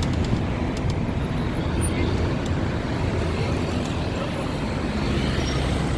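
Steady road traffic noise from vehicles running and passing along a busy city avenue.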